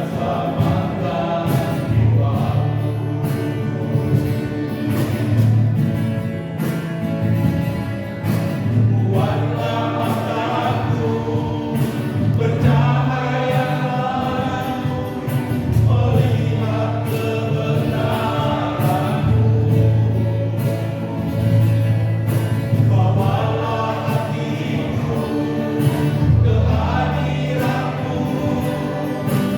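Choir singing a gospel song over instrumental backing with sustained low notes and a steady beat.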